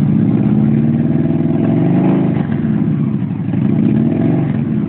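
Engine exhaust through aftermarket Atom Bomb mufflers, with a high-flow air filter, running at idle and given a light rev about two seconds in. The pitch rises and falls back, with a smaller blip near the end.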